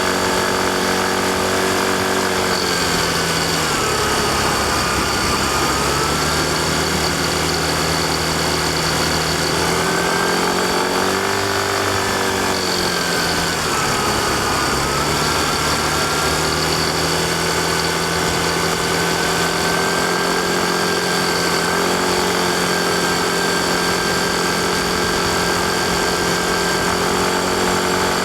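Yamaha Fazzio scooter's 125 cc single-cylinder engine running while riding. Its note drops a few seconds in, climbs again around the middle, drops once more, then holds steady, with a steady high whine above it.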